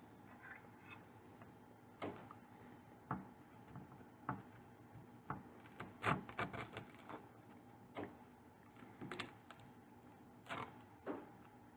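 Close-up eating sounds of a bakery pastry: irregular soft crunches and mouth clicks, with a cluster of quick crunches about six seconds in and again near nine seconds, over a faint steady hum.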